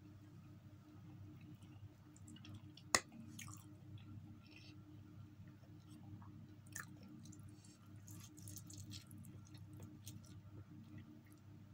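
Close-up eating sounds: a person chewing and eating forkfuls of instant noodles. A sharp click about three seconds in stands out above the soft mouth and fork noises, over a steady low hum.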